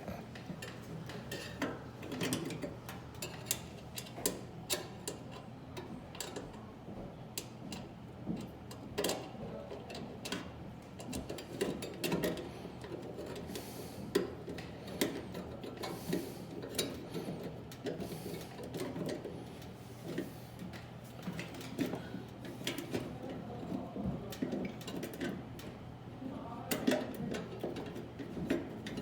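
Irregular metallic clicks, taps and scrapes of a screwdriver and screws working against the sheet-metal chassis and bracket as a magnetron is fastened into a microwave, over a faint steady hum.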